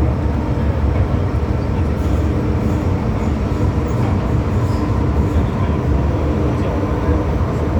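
MTR M-Train electric multiple unit running at speed between stations in the underground tunnel: a steady, unbroken rumble of wheels on rail.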